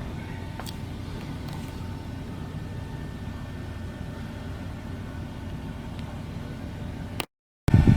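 Steady low machinery rumble with a faint steady tone and a few faint ticks, cut off abruptly by a brief dead silence near the end.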